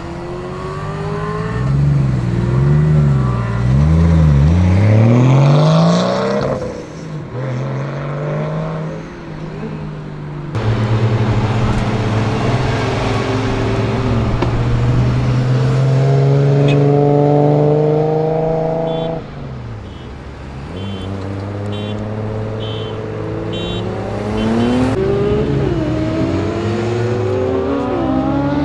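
Modified sports cars pulling away one after another, engines revving and accelerating hard. First a Nissan Skyline's straight-six is blipped up and down several times, then a Nissan 350Z's V6 pulls away in a long climbing run, and near the end a Volkswagen Golf accelerates off.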